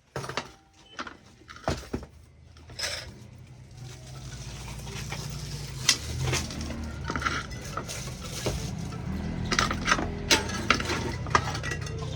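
Hard objects such as utensils or containers being handled, clinking and knocking in scattered sharp taps, over a low steady rumble that builds from about four seconds in.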